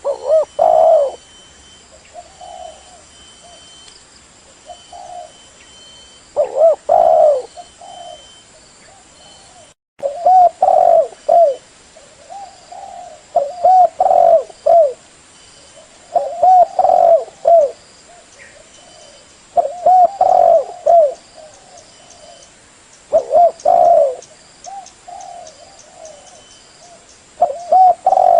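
Spotted dove (tekukur) cooing: a phrase of several low, quick coos every few seconds. The sound drops out briefly near the middle.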